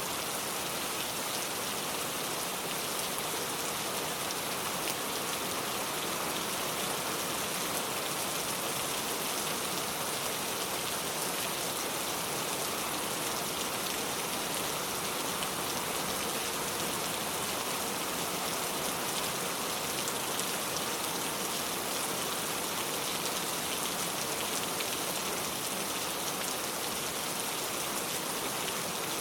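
Steady rain falling, an even hiss of drops on surfaces with no let-up.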